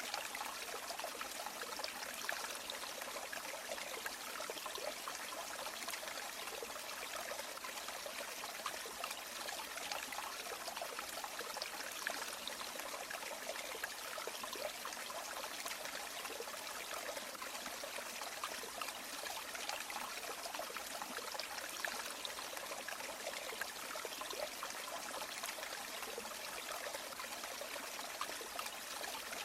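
Shallow river or stream flowing steadily over stones, a continuous babbling and trickling.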